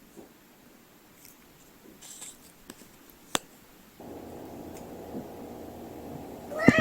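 Faint rustling and ticking with one sharp click, then a low steady hum comes in about four seconds in, and a cat starts to meow right at the end.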